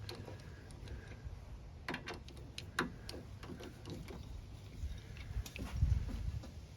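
Hand tools working at the carburetor mounting nuts on a snowblower engine: a few sharp metal clicks and taps at irregular intervals, with a low rumble of handling near the end.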